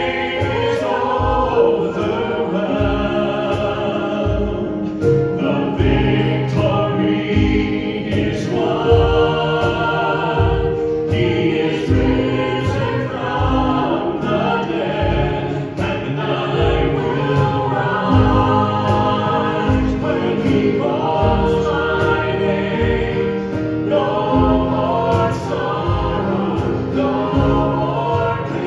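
Church worship music: singing over sustained chords, with a steady drum beat.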